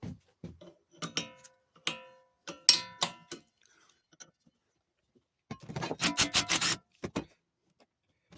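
Metal tools and parts clinking, with three sharp clanks that ring on briefly in the first three seconds, then a quick run of rattling clicks about six seconds in.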